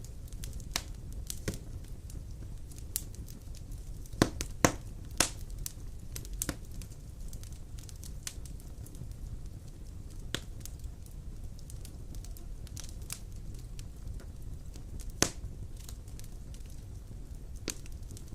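Wood fire burning in a stone fireplace: a steady low rush with irregular sharp crackles and pops, a few louder snaps around four to five seconds in and again about fifteen seconds in.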